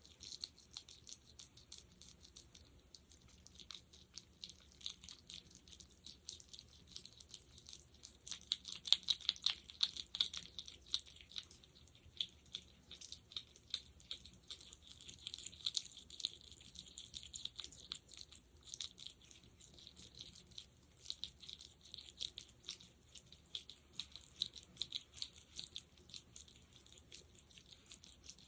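Fingers working a sticky gel: a dense, continuous run of fine, high wet crackling clicks, loudest about a third of the way in.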